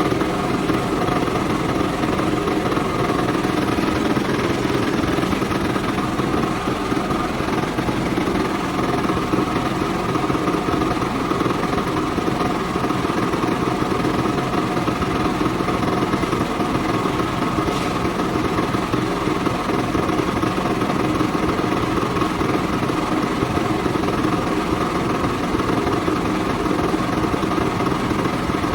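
Engine-driven machinery running steadily at an even, unchanging pitch.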